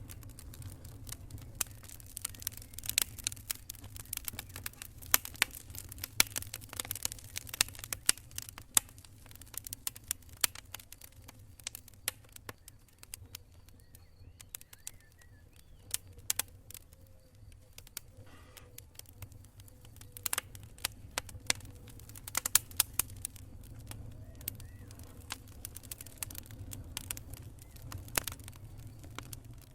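Wood campfire crackling and popping: sharp, irregular snaps over a steady low rumble, thick at first, thinning out in the middle, then picking up again.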